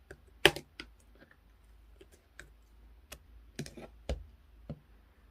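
Clear slime being pressed and pulled by hand, giving irregular sticky clicks and pops, the loudest about half a second in and a quick cluster near the end.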